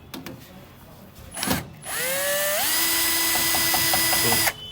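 Power drill running: the motor winds up with a rising whine, holds a steady speed for about two seconds, then stops abruptly. A brief rustle or knock comes just before it.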